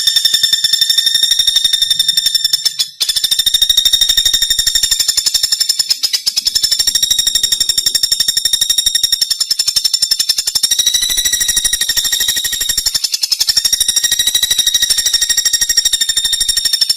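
Common flameback woodpecker (pelatuk bawang) giving a loud, high, very fast rattling call that runs on unbroken, with one short break about three seconds in.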